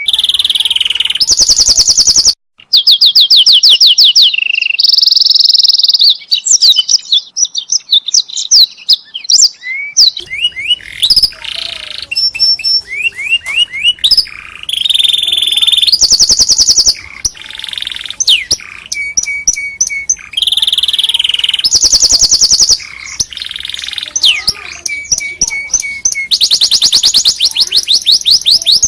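Domestic canary singing a long, loud song of rapid trills and rolls, each phrase a quick run of repeated high notes, switching to a new phrase every second or two. There is a short break about two seconds in.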